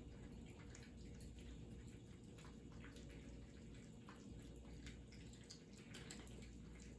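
Faint, irregular small clicks and wet smacks of cats eating, over a low steady hum.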